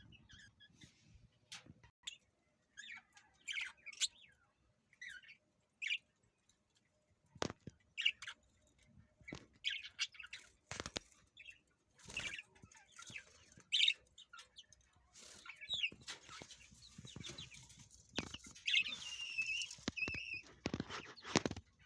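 Kept birds chirping in short, scattered calls, mixed with sharp clicks and knocks, growing into a busier stretch of chatter near the end.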